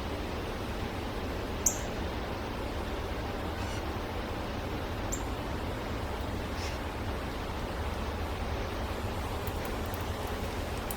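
A few short, high bird chirps, scattered one at a time over steady background hiss; the sharpest and loudest comes about two seconds in.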